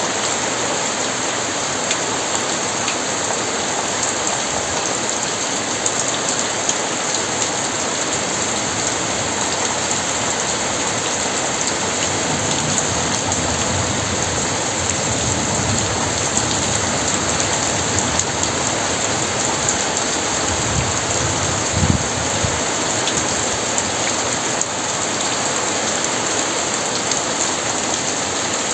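Very heavy rain falling steadily in a dense hiss. Low thunder rumbles swell up in the middle of the stretch, with a sharper crack about three-quarters of the way in.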